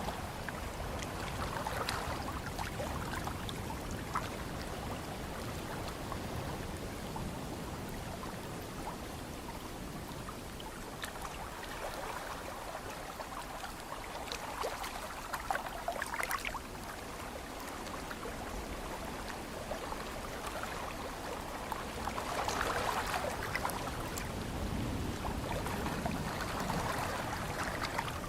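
Ocean surf: waves washing in and fizzing back over a steady wash of noise, swelling several times, with a low rumble of wind.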